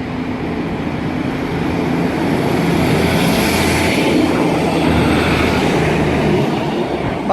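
Class 150 Sprinter diesel multiple unit pulling out, its diesel engines running under load. The engine note and rail noise swell, at their loudest about halfway through.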